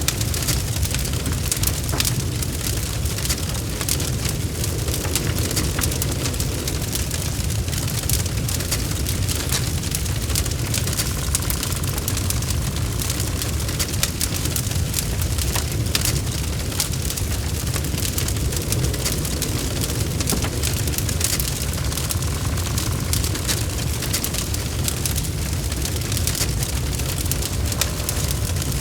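Log fire burning steadily: a constant low rumble of flames with many sharp crackles and pops from the burning wood.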